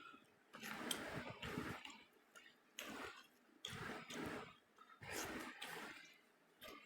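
Close-miked eating sounds: a person chewing and working through a meal of rice, fried small fish and chicken curry, in irregular bursts about once a second.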